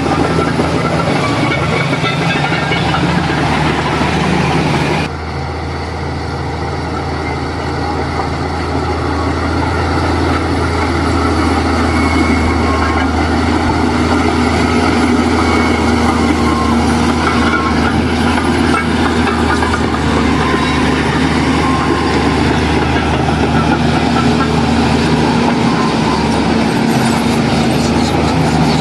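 Heavy diesel engine of earthmoving machinery running steadily under load, with a low drone; the level drops suddenly about five seconds in and then slowly builds back up.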